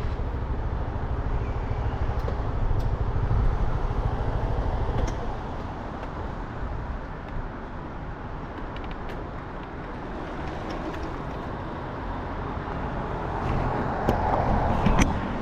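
A 300 cc motorcycle engine running, with road and wind noise as the bike rides through traffic. The sound is louder for the first few seconds, eases off, then builds again near the end.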